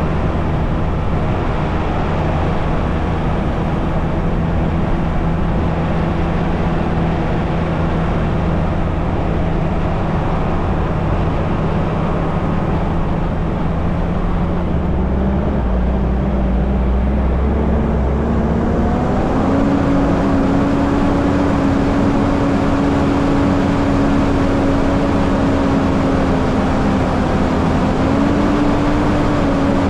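Mitsubishi Challenger 4WD driving up a trail, its engine running steadily. About halfway through the engine note rises over a few seconds and holds at the higher pitch, with a small step up near the end.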